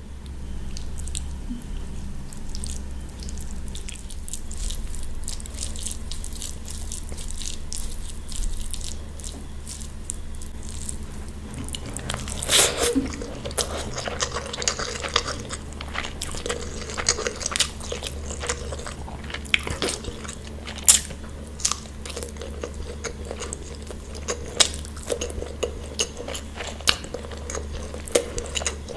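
Close-miked eating: biting and chewing, with a loud crunch about halfway through followed by many sharp crunches and clicks. A steady low hum runs underneath.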